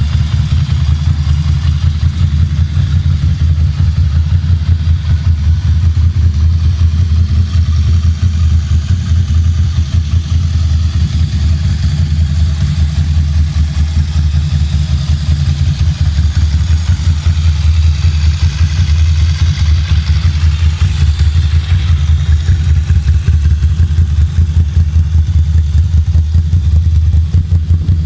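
Ducati Monster cafe racer's V-twin engine idling steadily, with a loud, deep pulsing exhaust note and no revving.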